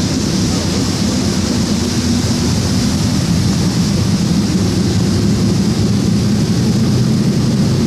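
Race car engines running in a steady, continuous drone, with no clear revving or single pass standing out.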